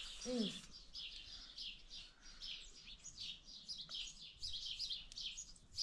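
Small birds chirping, a steady run of short high chirps a few times a second.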